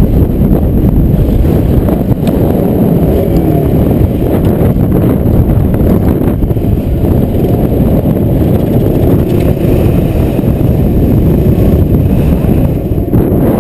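Strong dust-storm wind buffeting the microphone in a loud, continuous low rumble.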